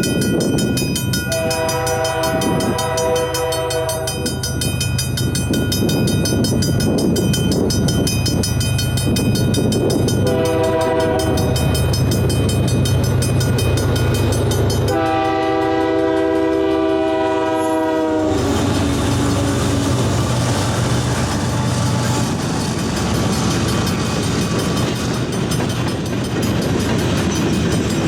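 A Canadian Pacific diesel freight train approaching and passing a level crossing while the crossing's mechanical bell rings steadily. The locomotive horn sounds the crossing pattern: two long blasts, a short one and a final long blast about fifteen seconds in. After that the engines' rumble and the wheel clatter of the passing cars take over.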